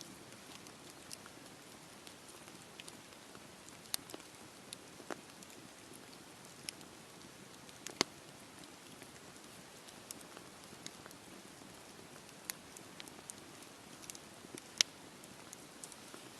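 Wood fire burning in a fireplace: a soft steady hiss with scattered sharp crackles and pops, the loudest about halfway through and again near the end.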